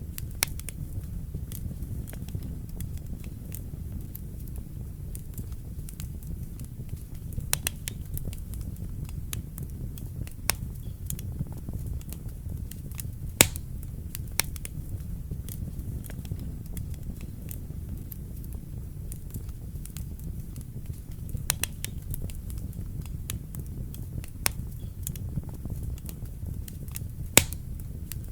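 Wood fire burning in a fireplace: a steady low rumble of flames with irregular crackles and sharp pops, two of them louder, about halfway through and near the end.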